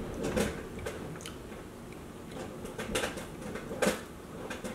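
A man chewing a mouthful of beer-battered fried tautog (tog), with a handful of short sharp mouth sounds scattered through.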